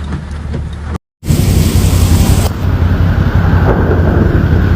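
Storm noise on a phone recording: heavy rain with wind buffeting the microphone as a steady low rumble. It breaks off for a moment about a second in, where one clip cuts to the next, louder one.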